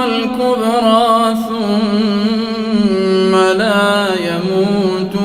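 A man reciting the Quran in a melodic tajwid style, holding long, wavering notes one after another.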